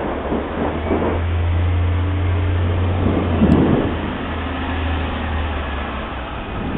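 Thunder rolling: a long, low rumble with louder crackling swells about a second in and again past the middle, dying away near the end, picked up by a mobile phone's microphone.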